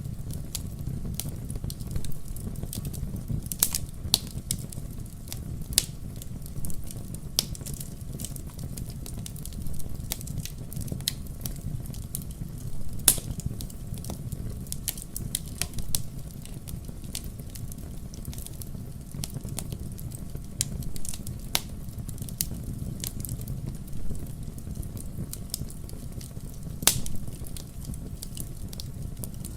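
Wood fire burning in a fireplace: a steady low rumble of flames with irregular sharp crackles and pops, two louder pops about thirteen seconds in and near the end.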